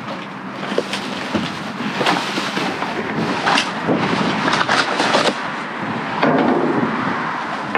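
Plastic and metal junk being handled and pulled at: a continuous rustle and clatter with many sharp knocks and cracks.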